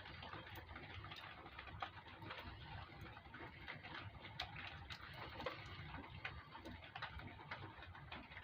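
Faint, irregular little clicks and scratches of fingers picking leftover bits of protective plastic film off a metal motorcycle luggage rack.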